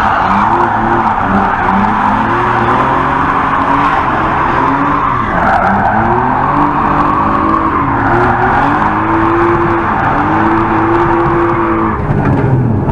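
BMW E46 Compact's engine heard from inside the cabin while drifting, revving up and down over and over, then holding higher revs for longer stretches, with tyres skidding throughout. The revs drop to a lower note near the end.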